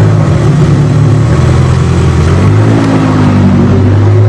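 Ferrari F50's V12 engine running at low speed as the car creeps forward, with the pitch rising slightly about halfway through and then settling.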